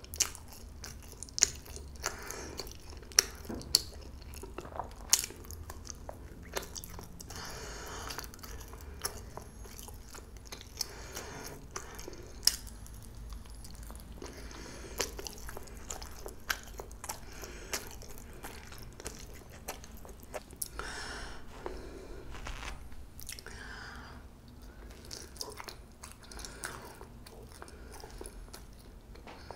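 Close-miked chewing of soft, spongy jeung-pyeon (steamed Korean rice cake): wet mouth sounds with scattered sharp mouth clicks.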